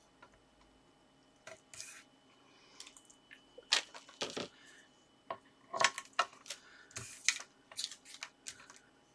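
Card and adhesive tape strips being handled at a craft table: a run of short crackles, rustles and small taps, the loudest about four and six seconds in.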